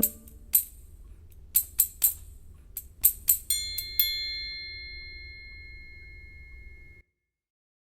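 Small hand percussion: a scatter of about ten sharp, jingly taps over the first few seconds. Then a high bell or chime is struck and rings out, fading for about three seconds before the sound cuts off abruptly.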